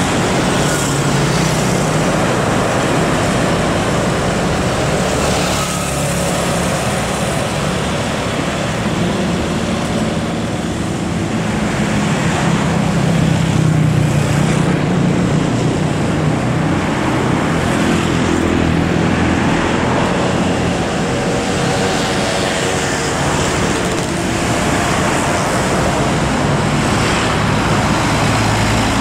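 Heavy truck engine running with a low drone that slowly rises and falls in pitch, over the steady noise of city road traffic.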